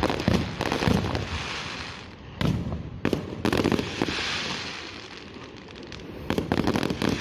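Aerial fireworks shells bursting in clusters of sharp bangs, about four groups. After the bangs comes a high crackling hiss that fades away.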